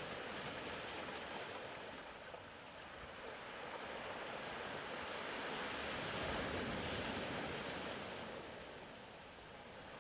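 Faint ocean-wave ambience: a soft, even wash of surf that swells slowly to a peak about six to seven seconds in, then ebbs.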